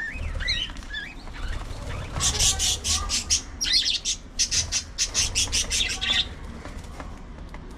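Pet budgies chirping with short warbling rising and falling notes. Then, from about two seconds in, a fast run of harsh, scratchy sounds lasting about four seconds before the birds go quieter.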